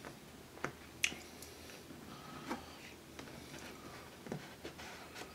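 Faint mouth sounds of someone chewing pizza close to the microphone: a few soft, wet clicks spread a second or more apart.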